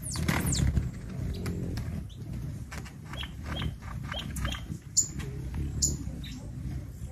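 Birds chirping: a quick falling whistle at the start, then a run of short, high chirps, over a low rumble.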